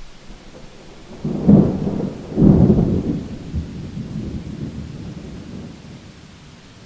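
A thunderclap over steady rain: a sharp crack about a second in, a second louder crack a second later, then a rumble that dies away over a few seconds.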